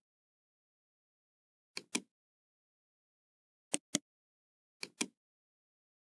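Computer mouse double-clicking three times, each a pair of sharp clicks about a fifth of a second apart, with silence between.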